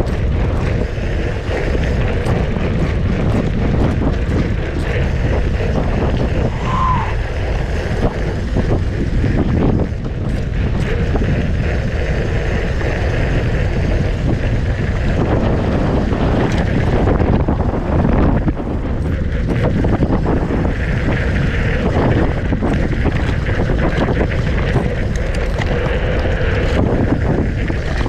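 Wind rushing over the microphone while riding a mountain bike on a trail, with tyre noise and frequent small clattering knocks from the bike over rough ground.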